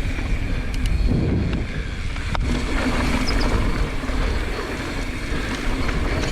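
Wind buffeting the microphone over the rumble and rattle of a 2019 YT Jeffsy 29er mountain bike descending a dirt trail, with a couple of sharp knocks.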